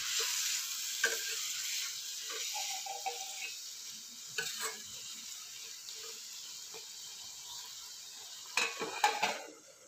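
Spiced masala sizzling in a steel kadai while a metal spatula stirs and scrapes it, the sizzle slowly dying down. A few louder metal clinks near the end as a steel plate is set over the pan as a lid.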